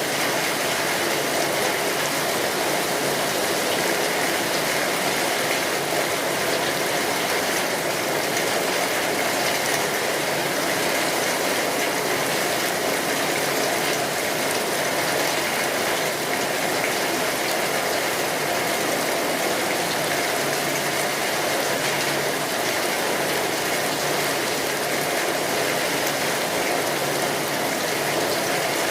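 Steady rainfall: an even, unbroken hiss of falling rain that holds the same level throughout.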